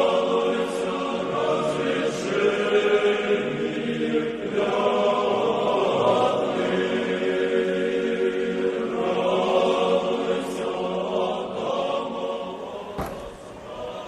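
Choir singing Orthodox church chant in long sustained phrases. It dies down near the end with a sharp click.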